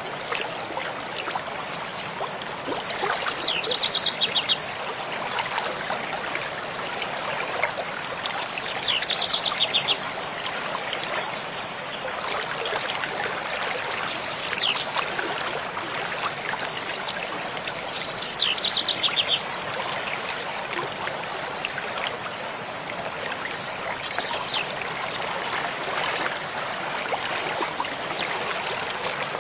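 Mountain stream flowing steadily, with a songbird singing the same short high phrase five times, about every five to six seconds, most phrases ending in a rapid trill.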